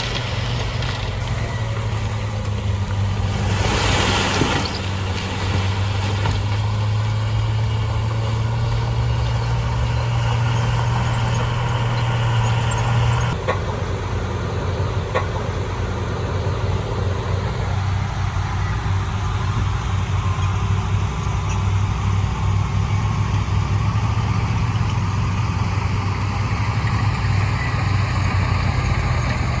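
Heavy diesel earthmoving machinery running steadily with a deep engine hum that shifts in tone about thirteen seconds in. A brief rushing noise comes about four seconds in.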